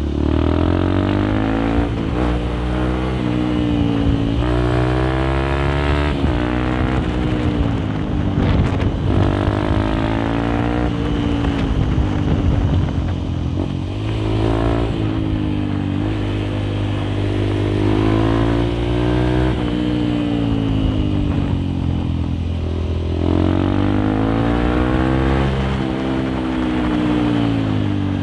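Honda CRF150L's single-cylinder four-stroke engine heard through a Nofifumi Torc aftermarket exhaust while riding. The revs climb and drop again and again as the bike accelerates through the gears and eases off.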